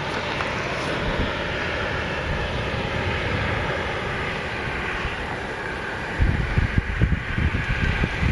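Steady roar of a severe thunderstorm's wind and rain. From about six seconds in, gusts buffet the microphone.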